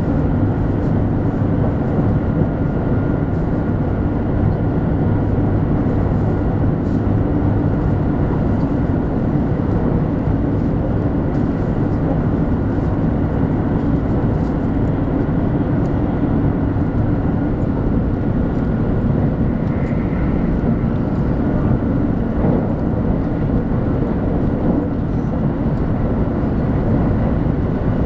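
Cabin running noise of a 200-series Shinkansen travelling at speed: a steady rumble of wheels on rail and traction motors, with a thin whine held at one pitch.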